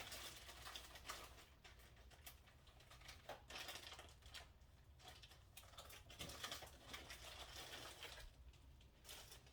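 Near silence with faint, scattered small clicks and rustles of kitchen containers and lids being handled.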